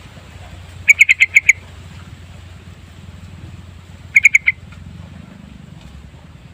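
Yellow-vented bulbul (trucukan) song: a quick run of about six loud, rapid notes about a second in, then a shorter run of four about four seconds in, over a steady low hum.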